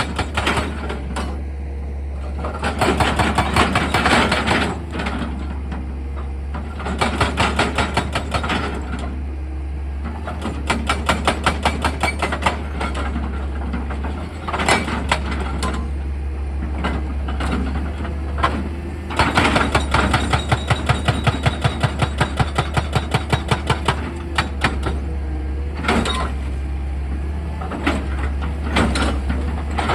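Excavator's diesel engine running steadily while a hydraulic hammer attachment pounds rock in several spells of rapid, evenly spaced blows, about five a second, with short pauses between spells.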